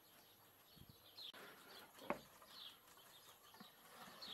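Faint bird chirping: a few short, falling high notes scattered through a near-silent quiet, with one soft click about two seconds in.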